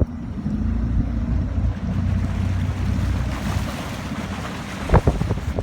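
Wind buffeting the microphone by open water, a heavy uneven low rumble with water moving underneath. A couple of sharp knocks near the end.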